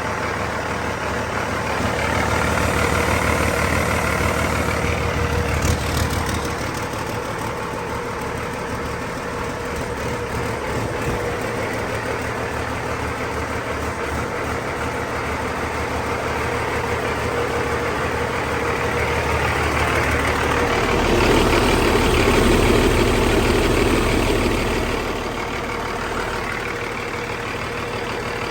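2005 Cummins ISX 15-litre turbocharged six-cylinder diesel engine running on a test run, mostly at idle. It speeds up and gets louder twice, about 2 s in and again about 20 s in, each time settling back to idle a few seconds later.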